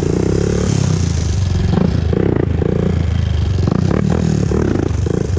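2001 Honda TRX400EX ATV's single-cylinder four-stroke engine running under way, its note rising and falling as the throttle is worked through the turns.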